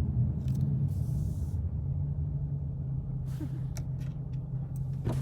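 Dodge Challenger V8 and road noise heard from inside the car while cruising, a steady low drone that holds its pitch, with a few short clicks and brief hisses.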